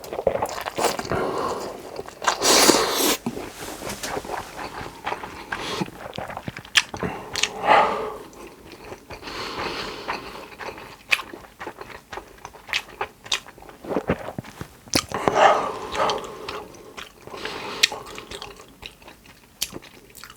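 A person eating close to the microphone: irregular bites and chewing, with crunchy bites now and then.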